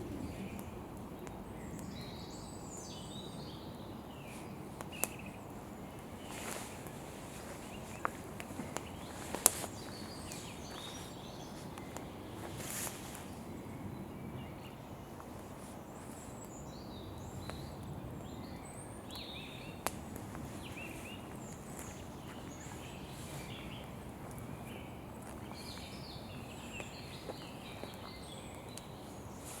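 Campfire burning with a steady low noise and a few sharp pops from the wood, the loudest about nine and a half seconds in. Birds chirp in the background.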